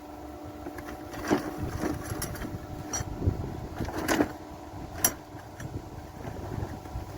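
A few sharp metal clinks and knocks, such as tools or parts striking metal during engine repair work, over a steady hum.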